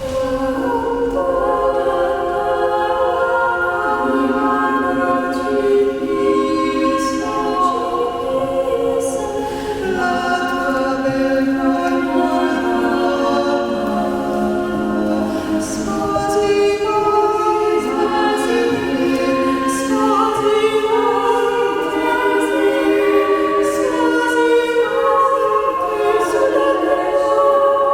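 A choir singing a hymn, several voices holding long notes that change together in slow steps, starting suddenly at full level.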